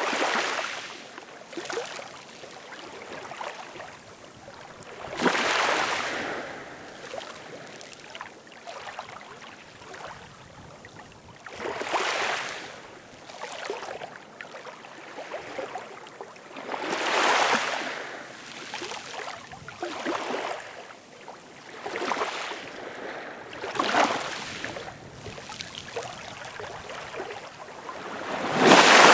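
Ocean waves washing in, a loud surge of surf about every five to six seconds with smaller washes in between.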